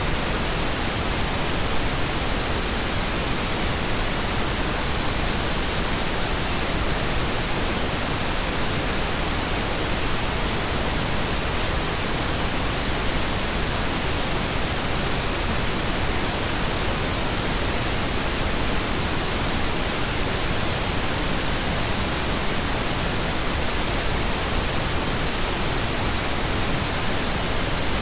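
Steady pink noise: an even, unchanging hiss that never varies in level.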